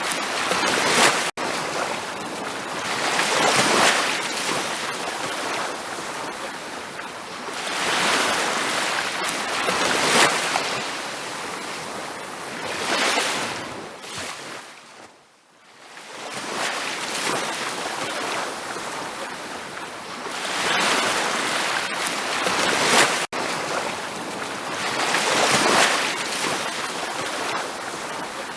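Ocean surf washing onto a beach, the noise swelling and ebbing as each wave breaks and draws back. It fades almost to silence for about a second halfway through, and cuts out for an instant twice.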